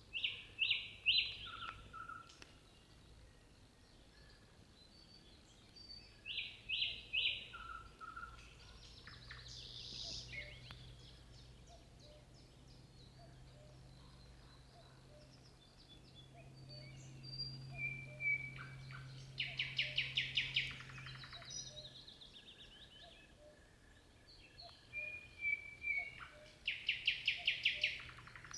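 Nightingale singing: loud phrases of sharp, rapidly repeated notes separated by pauses of a few seconds, with a fast rattling run of many notes near the middle and again near the end.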